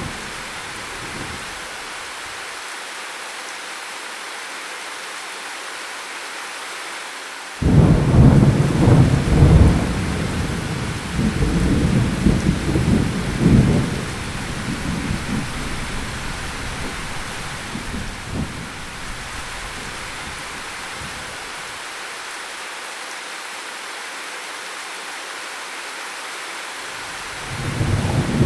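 Steady rain in a thunderstorm. About a quarter of the way in, a sudden clap of thunder breaks in and rumbles on in waves for several seconds before fading back under the rain, and another rumble of thunder builds near the end.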